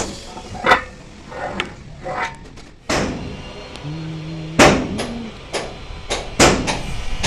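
Hammer blows on a steel truck chassis frame, irregular strikes with a short ring after each, the loudest about three seconds in and again a second and a half later. A brief steady low hum sounds just before the second loud strike.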